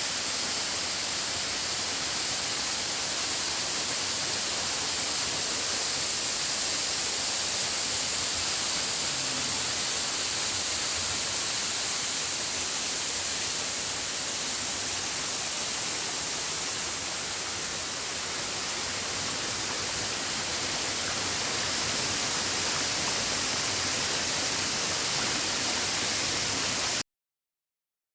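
Waterfall cascade rushing steadily, a dense hiss of falling water; it cuts off suddenly near the end.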